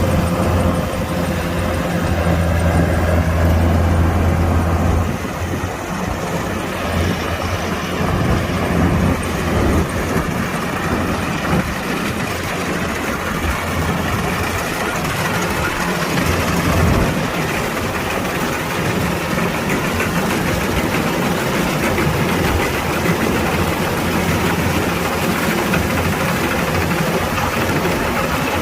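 Kubota DC-105X combine harvester's diesel engine running steadily, with a strong low hum for about the first five seconds that gives way to a rougher, noisier rumble.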